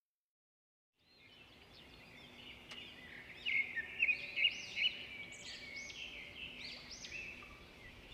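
Birds chirping: many short calls rising and falling in quick arcs over outdoor background noise, starting about a second in and loudest in the middle.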